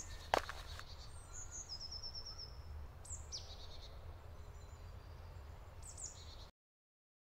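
Faint woodland birdsong over a low steady rumble: a short run of repeated high notes about two seconds in, a quick falling call around three seconds, and another high call near the end. A single sharp knock comes just after the start, and all sound cuts off about six and a half seconds in.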